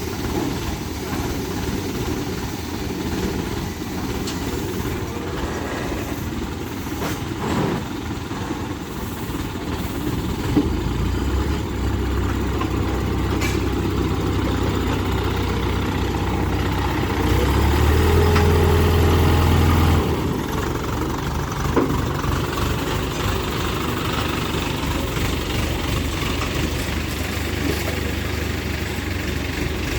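Heavy vehicle engine running steadily. About a third of the way in it rises to a louder, deeper drone that builds further and then drops back to its earlier running about two-thirds of the way through. A few sharp knocks can be heard.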